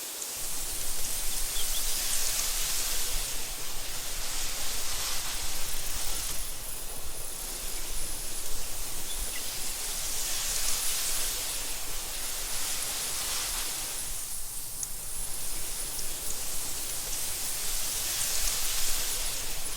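Wind blowing through tall meadow grass: a steady rushing hiss that swells and eases every few seconds, with a low rumble underneath.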